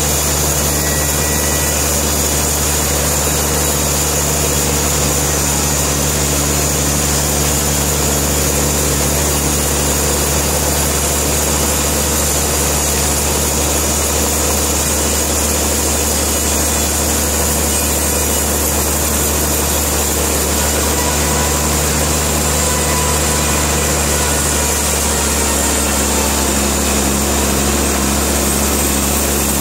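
Sawmill engine running steadily with a low, even hum that does not change.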